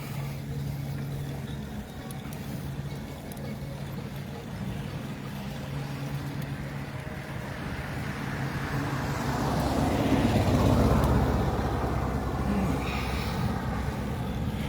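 A motor vehicle engine running steadily on the road. A louder rush swells up and fades about ten seconds in, as of a vehicle passing close by.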